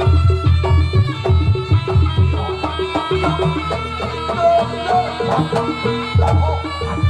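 Live Javanese jaranan music: drums over a repeating pattern of struck tuned bronze percussion.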